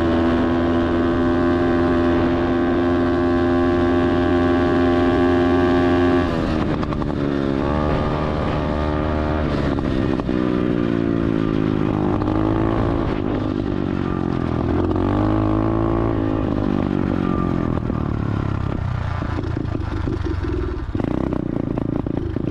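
SSR 125 automatic dirt bike's single-cylinder four-stroke engine running at steady revs. About six seconds in the revs drop, then rise and fall again and again with the throttle.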